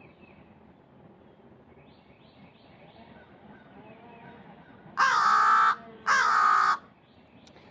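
A crow cawing twice, loud and harsh, each call under a second and about a second apart, beginning about five seconds in. Fainter short bird calls sound in the background before them.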